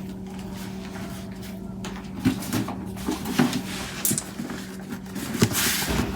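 Objects being handled: scattered light knocks and clatters, then a brief rustle near the end, over a steady low hum.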